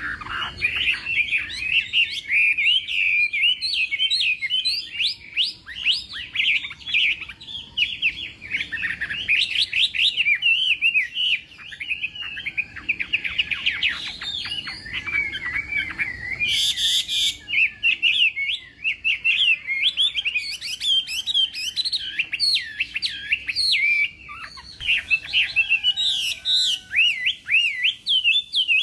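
Chinese hwamei singing its long, loud song of rapid, varied whistled phrases and trills with hardly a pause. A short hiss-like burst comes about 17 seconds in.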